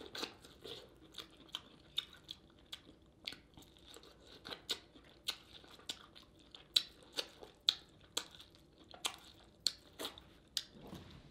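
Close-miked mouth sounds of eating: wet chewing and lip smacking, with sharp, irregular smacks about once or twice a second.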